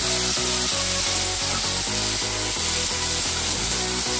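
Chopped tomatoes and onions sizzling as they fry in hot oil in a kadai, under electronic background music with a steady beat.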